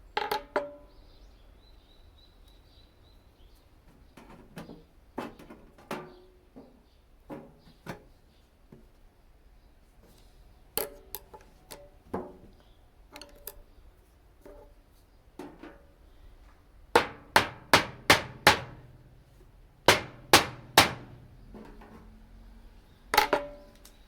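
Hammer blows on a flathead screwdriver punching holes in a tin rice-cracker can, each strike a sharp metallic knock. Irregular taps at first, then a quick run of about six blows past the middle, a few more after, and one loud blow near the end.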